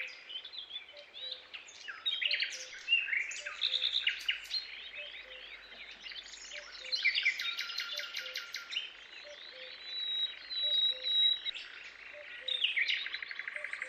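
Tropical forest ambience: many birds chirping, whistling and trilling over one another, with rapid repeated-note calls. Under them a faint low pip repeats a bit faster than once a second.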